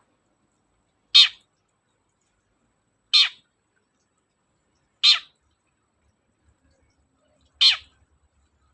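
Long-tailed shrike (cendet) giving four short harsh calls, about two seconds apart.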